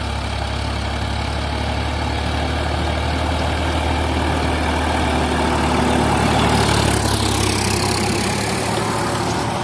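Sonalika DI 750 DX tractor's diesel engine running steadily at low speed, growing a little louder about six seconds in.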